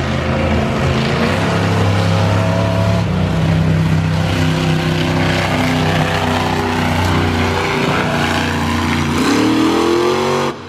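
Several racing vehicle engines running at once at different pitches, one revving up in a rising whine near the end.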